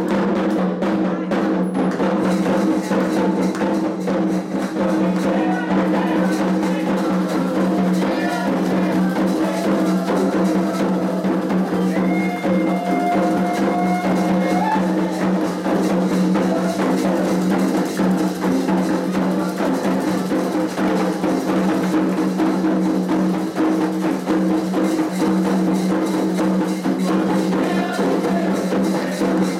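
Candomblé ritual drumming on atabaque hand drums, a dense, continuous rhythm without a break.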